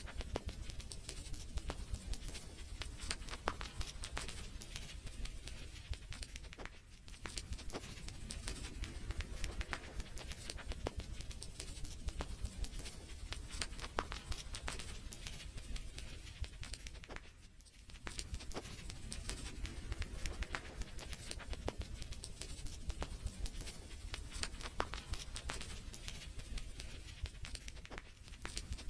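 Wood fire crackling: a dense run of sharp pops and snaps over a low steady rumble, easing briefly twice, at about 7 and 17 seconds in.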